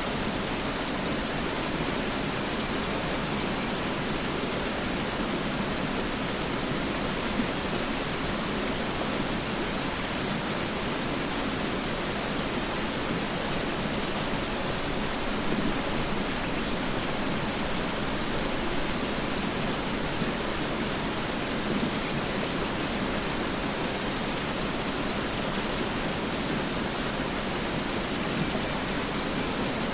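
Mountain river flowing and rushing over rocks: a steady, even rush of water.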